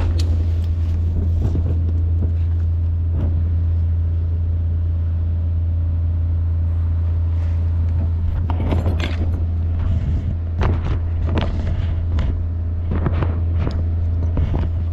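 A vehicle engine running at a steady idle. From about eight seconds in it is joined by a string of short clatters and knocks, like gear or keys being handled.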